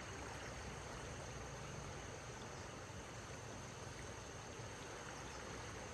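Faint steady outdoor background: a constant high-pitched insect drone over a low, even hiss.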